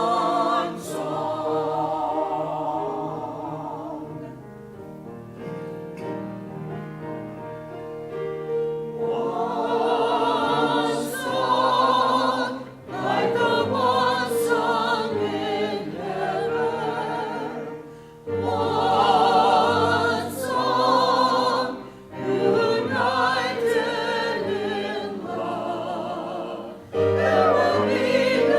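Church choir singing an anthem in phrases separated by short breaks, the voices with a wide vibrato.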